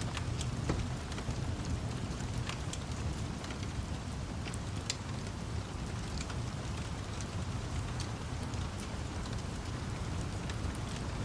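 Steady rain with a low, constant rumble underneath, and scattered sharp crackles and pops from a wood fire at irregular moments.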